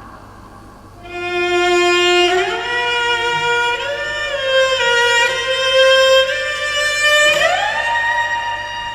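Solo cello played high on its strings, starting about a second in with a slow, sustained melody that slides between notes and makes a wide upward slide near the end.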